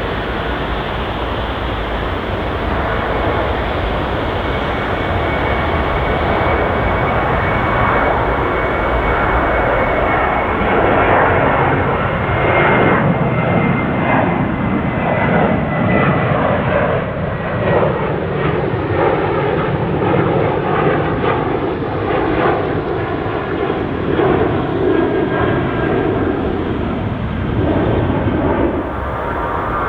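Jet airliner engines running loud and steady, with a thin high whine that slowly falls in pitch and a rumble that swells and grows rougher about halfway through.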